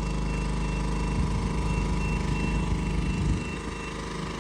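An engine idling steadily: a loud, low hum with a rapid pulse that eases slightly about three seconds in.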